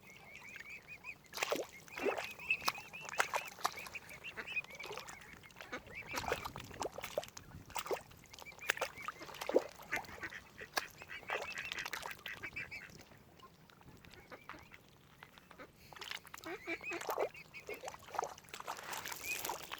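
Waterfowl calling: short quacking and honking calls mixed with rapid, high-pitched chattering notes, coming in bursts with a quieter lull around the middle.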